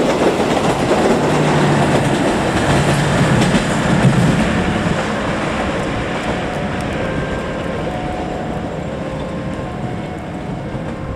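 Passenger train coaches rolling past close by with a loud rumble and wheel clatter over the rail joints, the sound fading gradually over the second half as the train draws away.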